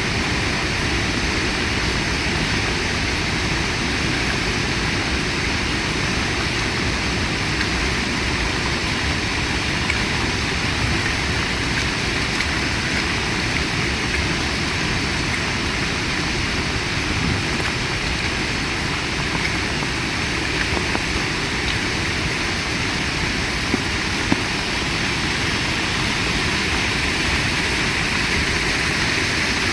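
Heavy rain falling steadily with strong wind, a dense, even hiss with a rumbling low end. It swells slightly louder near the end.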